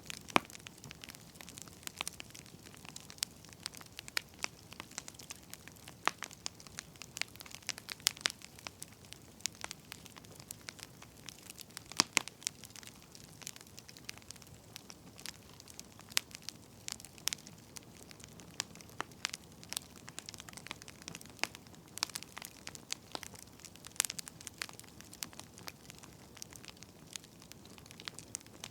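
Burning firewood crackling: irregular sharp pops and snaps, some louder than others, over a faint steady hiss.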